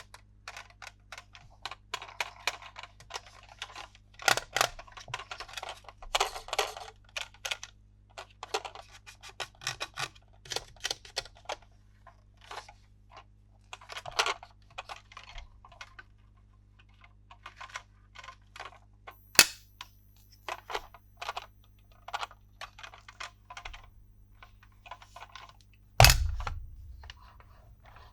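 Hard plastic toy pieces being handled: a run of irregular clicks and taps, with short bursts of rustling. There is a sharp snap about two-thirds through and a loud knock with a thud near the end.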